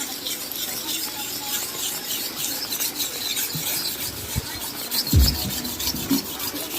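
Steady rain pattering, with two short low thumps about four and five seconds in.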